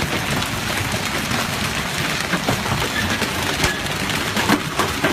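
Hailstones falling and striking hard surfaces: a dense, steady noise of many small, sharp impacts, with a few louder hits near the end.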